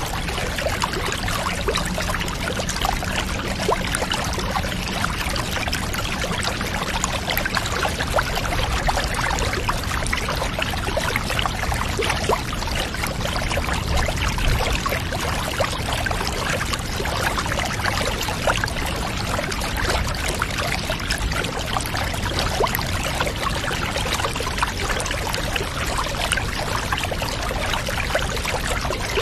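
Water pouring steadily into a bath, with fine trickling splashes that run on without a break.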